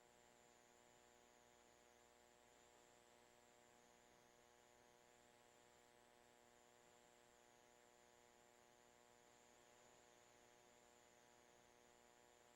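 Near silence: only a faint, steady electrical hum with a faint high whine, unchanging throughout.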